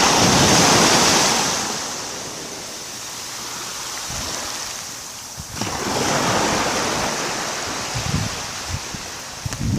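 Gentle sea waves breaking on the shore: one wave breaks at the start and washes out, fading over a couple of seconds, and a second, softer wave breaks about halfway through.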